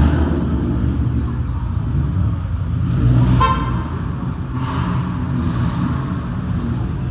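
Car engines running with a steady low rumble, and a short car horn toot about three seconds in.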